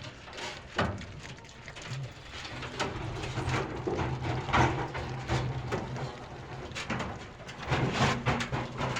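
Nutrias eating at their cage: irregular crunching, clicking and rustling of feed, with a low steady hum underneath for much of the time.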